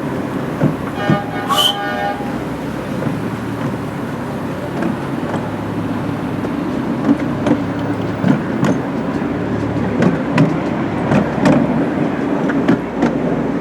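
Miniature railway train running along the track, with a steady running noise and irregular clicks and knocks from the wheels on the rails. A short toot on the locomotive's whistle or horn sounds about a second in.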